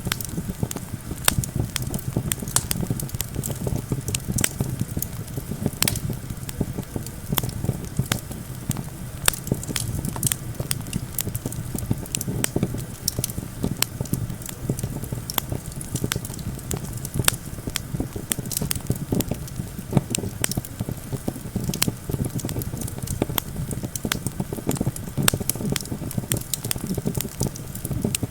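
Campfire crackling, with frequent sharp pops and snaps, over a steady low rush of wind.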